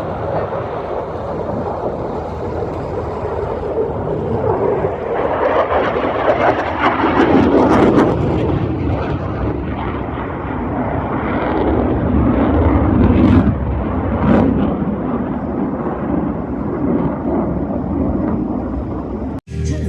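Aircraft flying past at an airshow: engine noise swelling twice, with a pitch that drops as it passes, then cut off abruptly just before the end.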